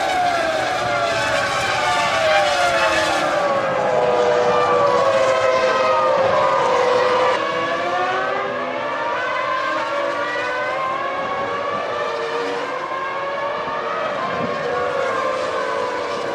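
Several 2000-era Formula One V10 engines revving, their overlapping high-pitched notes sliding up and down.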